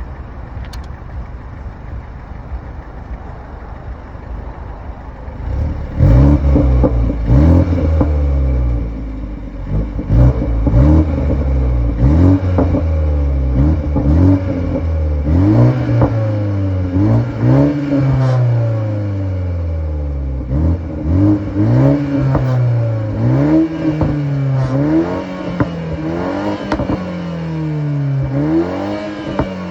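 BMW G20 3 Series engine through its stock exhaust, idling steadily, then revved again and again from about six seconds in, each rev rising and falling in pitch about once a second.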